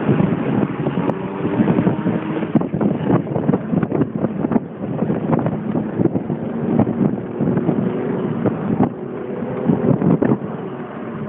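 Porsche 911's flat-six engine running on the move, its pitch shifting up and down, heard from inside the car under heavy wind buffeting on the microphone.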